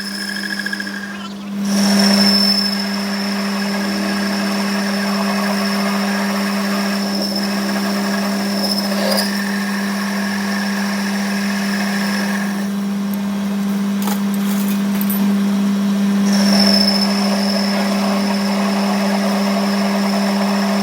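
Workshop machine tool running steadily with a constant hum and a high whine. The whine drops out for a few seconds past the middle and then comes back.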